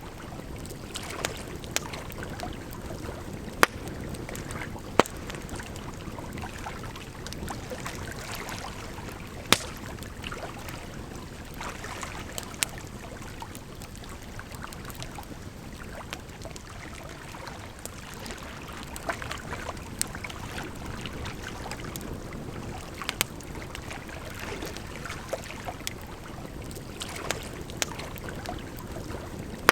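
Wood fire crackling with irregular sharp pops, a few of them much louder than the rest, over a steady rush of flowing water.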